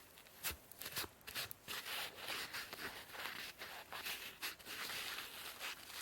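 Sponge being rubbed close to the microphone: scratchy rubbing with irregular crisp crackles.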